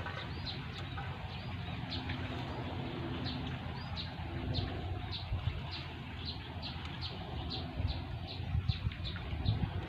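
A small bird repeating a short, high, falling chirp about two to three times a second, over a steady low rumble with a few thumps near the end.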